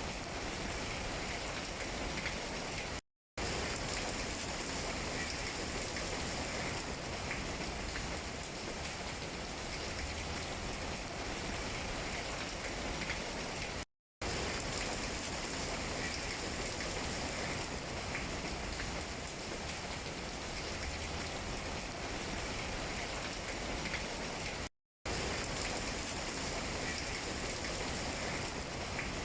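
Steady rain falling on tree leaves, an even hiss with scattered light drop taps. The sound cuts out to silence for a split second three times, about every eleven seconds.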